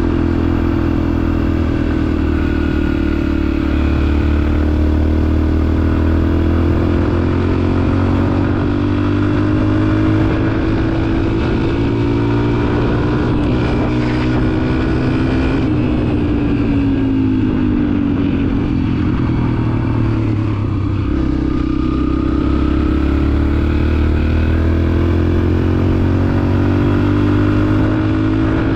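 Dirt bike engine running while being ridden, its note rising and falling slowly with the throttle, and dropping lower and rougher for a few seconds past the middle.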